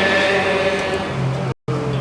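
Balinese gamelan music: sustained, ringing metallic tones with a low hum beneath. The sound cuts out completely for a moment about one and a half seconds in, then resumes.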